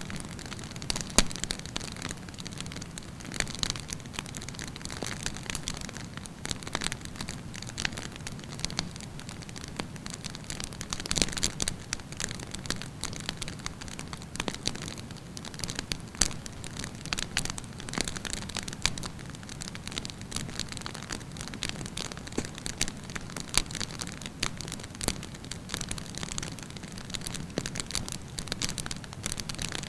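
Wood campfire burning with continuous crackling: many sharp irregular pops and snaps over a steady low rush of flame.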